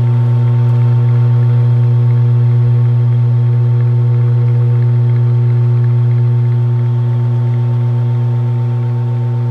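Sears Roebuck flush-mount (hugger) ceiling fan running, its motor giving a loud, steady electric hum with overtones.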